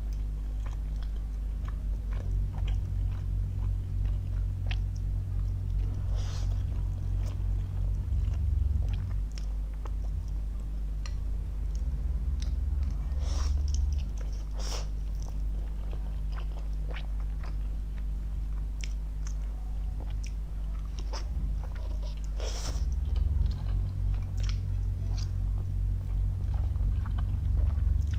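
Close-up eating sounds: a person chewing and slurping spicy instant noodles, with many small wet mouth clicks, over a steady low hum.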